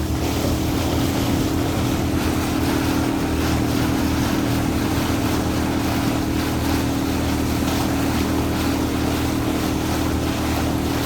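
A boat's engine running at a steady, even pitch, with wind and water noise over it.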